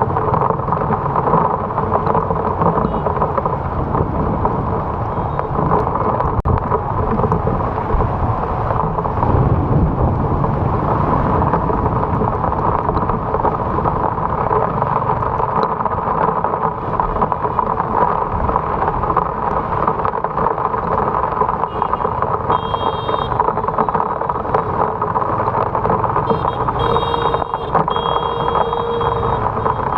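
Steady, loud rumble of a motorbike ride through heavy rain: rain and wind noise on the action camera's microphone over the running engine and tyres on the wet road. Short high-pitched tones sound twice in the last third.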